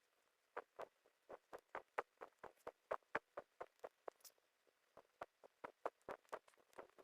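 A rapid, irregular series of light taps or clicks, about four to five a second, with a short pause about two-thirds of the way through.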